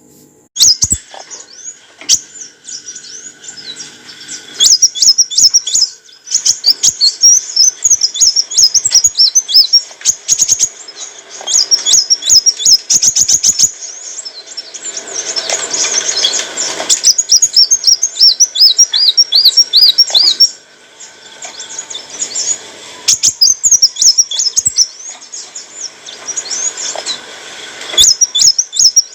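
Kolibri wulung sunbird singing: rapid, high twittering chirps and trills in repeated bursts. A short noisy rush comes about halfway.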